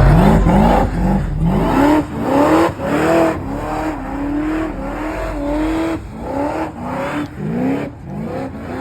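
Car engine revved repeatedly: a run of quick blips rising in pitch, a few seconds held at high revs in the middle, then more short revs.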